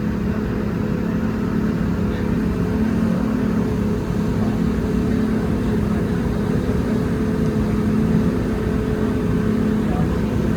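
Ferry engine running steadily, a constant low hum with a steady tone in it.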